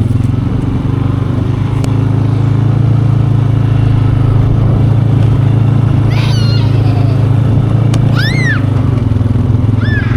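Four-wheeler (ATV) engine running steadily at an even pitch. Three short high cries, rising then falling, come over it later on.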